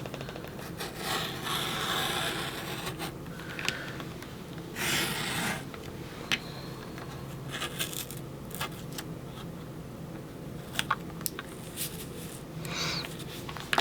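Circle-cutter blade being run around a plastic template's channel, slicing through cardstock: soft scraping and rubbing with many small clicks, and two longer scraping strokes about one and five seconds in.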